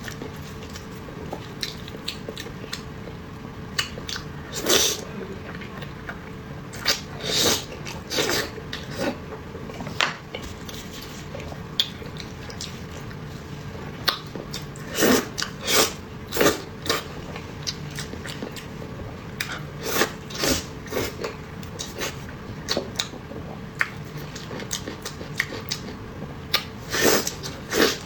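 Close-miked mouth sounds of a person chewing and biting grilled eel and rice noodles: irregular sharp clicks and smacks, some in quick clusters, over a low steady background.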